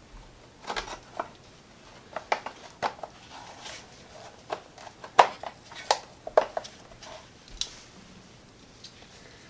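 Irregular metallic clicks, clinks and knocks of metal parts and hand tools being handled during hands-on work on a mower build, about a dozen scattered strikes with the loudest about five seconds in.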